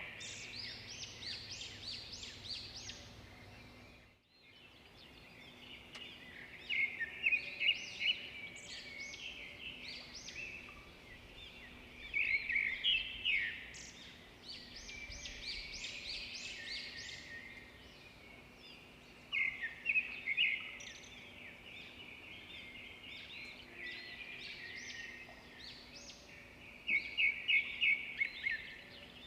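Songbirds singing, with several voices overlapping in phrases of quick high chirps and trills every few seconds. The sound briefly drops out about four seconds in.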